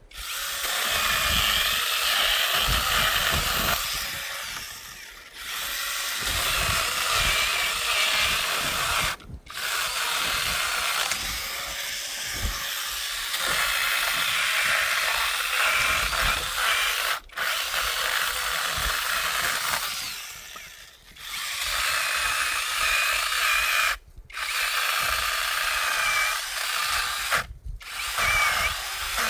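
A high-pitched motorised power tool running with a whine, broken off abruptly several times.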